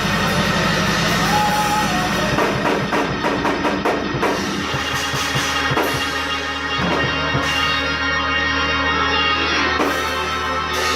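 Band music: a drum kit playing over held keyboard chords and a steady bass.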